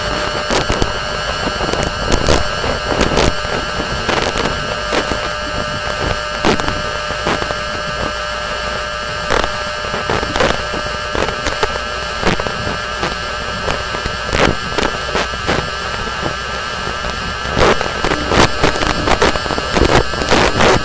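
Electromagnetic pickup-coil recording of a Siemens Desiro Class 450's IGBT VVVF traction inverter, holding a set of steady high inverter switching tones. Frequent sharp crackling clicks cut through it as the inverter gains and loses power over poor third-rail contact.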